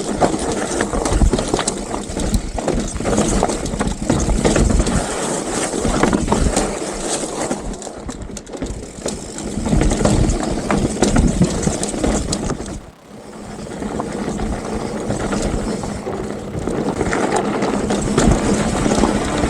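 Mountain bike riding a rocky dirt trail: tyres crunching over gravel and rock with a constant clatter of small knocks and rattles from the bike. The noise drops away briefly about two-thirds of the way through.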